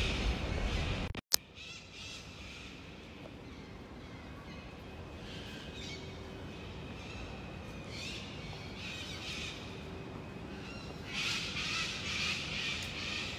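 Steady outdoor ambience with intermittent high chirps, like birds calling, which come more often near the end. About a second in, the sound drops out briefly and a sharp click follows.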